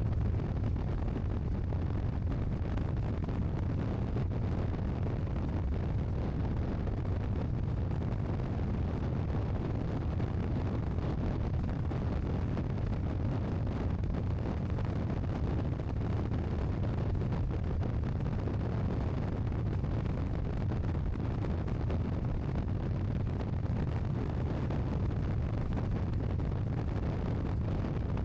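Motorcycle running steadily at cruising speed, with wind rushing over the microphone.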